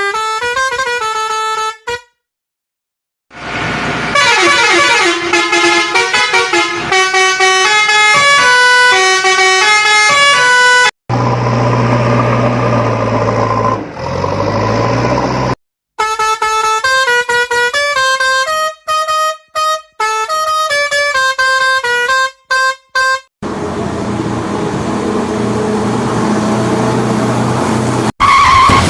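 Animation soundtrack: a tune of short stepped notes that stops and restarts several times, with a steady low drone in the middle and a noisy rumble with a low hum near the end.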